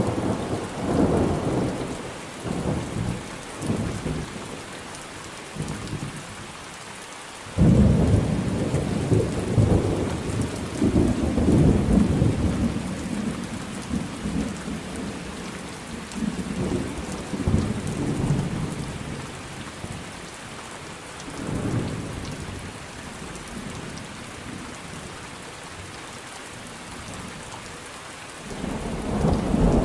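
Thunderstorm: steady rain with rolling thunder. A rumble fades away over the first few seconds, then a sudden loud clap about seven and a half seconds in rolls on and dies away over several seconds, softer rumbles follow, and another rumble builds near the end.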